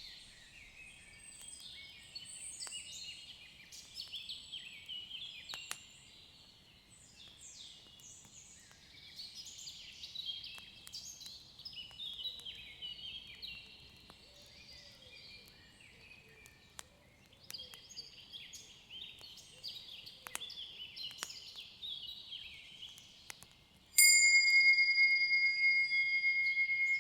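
A dense chorus of many birds chirping and singing. Near the end, a loud, high ringing tone with overtones starts suddenly and slowly fades.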